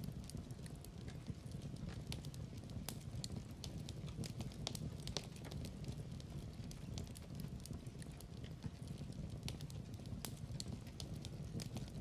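Wood fire in a fireplace crackling: a steady low rumble of the flames with frequent irregular sharp pops and snaps of burning wood.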